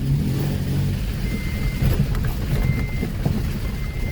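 2010 Toyota Tacoma's engine pulling slowly at crawling speed over rocks and mud, heard from inside the cab, with crackling and small knocks from the tyres and truck body. A faint high whine comes and goes three times.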